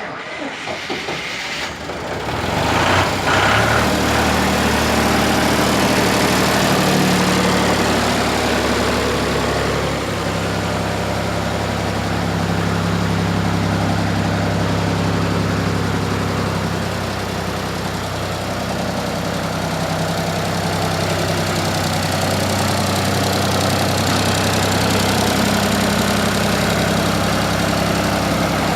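John Deere tractor engine starting up suddenly, rising a few seconds in, then running steadily at a fairly constant speed.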